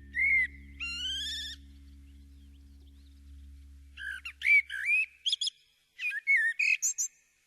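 A songbird singing varied whistled phrases, with gliding notes and short trills, in two bursts. A low steady hum sits underneath and fades out about halfway through. It is birdsong recorded as the intro of a music track.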